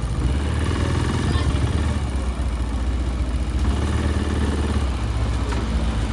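Motorbike engine running steadily amid street traffic noise.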